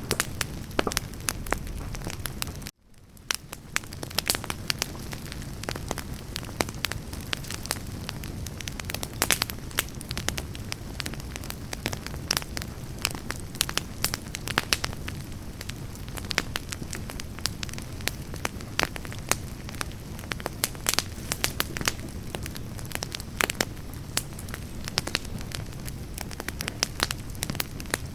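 Wood campfire burning, with frequent sharp crackles and pops over a low steady rush. The sound cuts out for a moment about three seconds in, then comes back.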